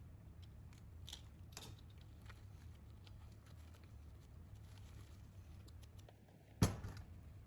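Faint scattered clicks and taps over a low steady hum, with one sharp knock about six and a half seconds in.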